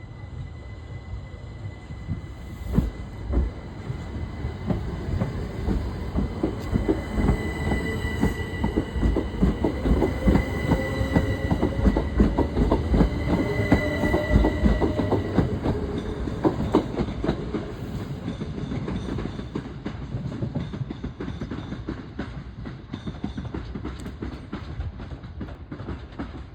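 Electric train running past on the station line, its wheels clicking rapidly over the rail joints. It grows loudest about halfway through and then eases off, with a thin steady high whine over the first half.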